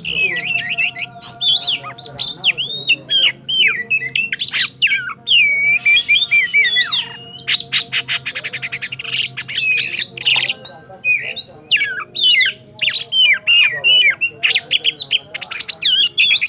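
Oriental magpie-robin (kacer) singing a long, unbroken song of loud whistled sweeps and rapid trills, in the continuous 'roll tembak' style that Indonesian songbird keepers prize.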